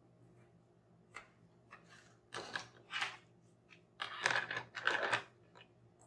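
Hands handling toy packaging or materials: a small click, then two clusters of short crunching, rustling noises about two and four seconds in.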